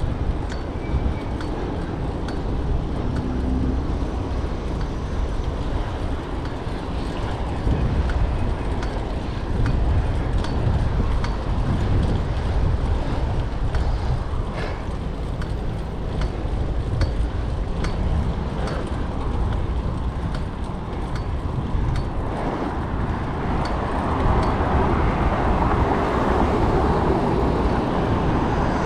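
Wind rushing over the microphone of a moving bicycle and city traffic around it, a steady low rumble with faint scattered ticks. The traffic noise grows louder about two-thirds of the way through.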